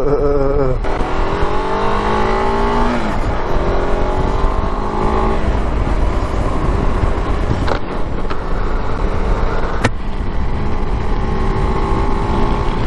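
Car engine accelerating through the gears: its pitch rises, drops at a shift, rises again, then holds steady over a constant road rumble. Two brief sharp ticks come partway through.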